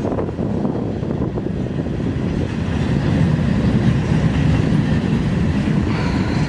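A train passing close by: a continuous rumble of wheels on rails, growing a little louder about halfway through.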